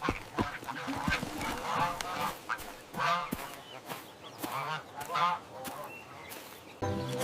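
Farm birds honking: a run of short, repeated nasal honking calls.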